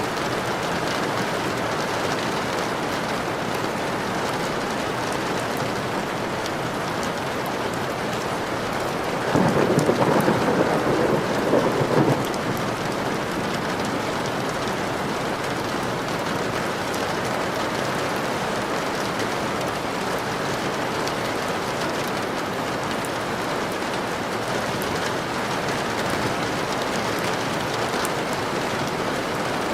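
Steady rain falling, with a roll of thunder about nine seconds in that lasts around three seconds and stands out above the rain.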